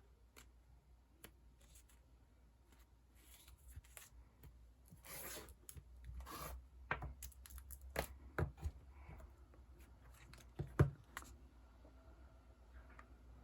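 Sticker sheets and their plastic packaging being handled: scattered rustles and swishes, then a run of sharp taps and clicks, the loudest about eleven seconds in.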